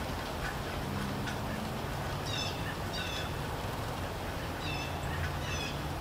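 Steady rain falling, with a bird giving short calls in two pairs, one pair about two seconds in and the other near the end.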